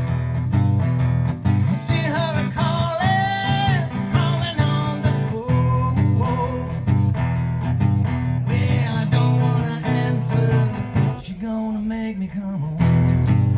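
Country music played live: acoustic guitar strumming over a steady bass line, with a singer's voice coming in and out.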